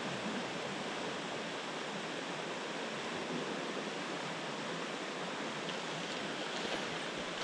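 Steady rushing of a river's current flowing over rocks, with a few faint ticks near the end.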